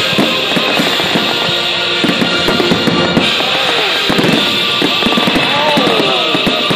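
Fireworks banging and crackling in quick succession over loud music played along with the display.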